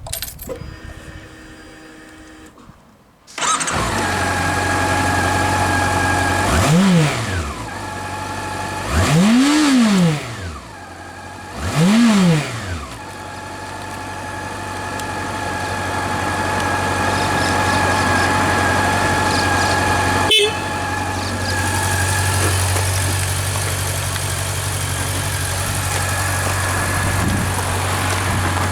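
Honda CB400 Super Bol d'Or's inline-four engine with an aftermarket muffler starting about three seconds in and settling to idle, then blipped three times, each rev rising and falling back, before idling steadily again. A single sharp click sounds about twenty seconds in.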